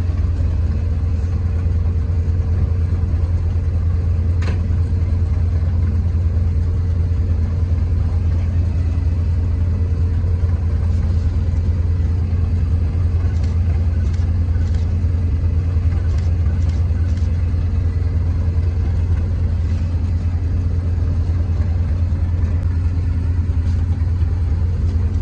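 Diesel train engine idling with a steady low drone while the train stands at a red signal.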